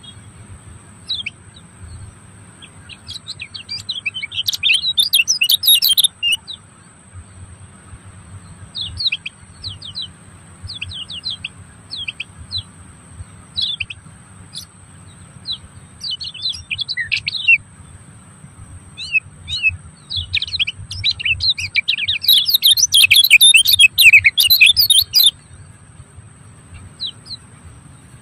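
Birds chirping: scattered short, quick chirps, with two stretches of rapid, dense twittering, the first a few seconds in and the second about three quarters of the way through.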